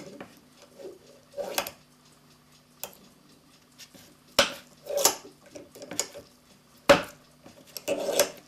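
Scattered metallic clinks and knocks as a steel clock mainspring is handled and set in a bench vise: about six separate strikes, the sharpest about two-thirds of the way through.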